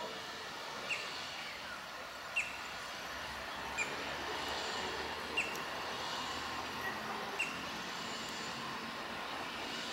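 Electric commuter train pulling out of a station slowly, a steady rumble and hiss that grows slightly louder as it approaches. A short high chirp repeats over it about every one and a half seconds.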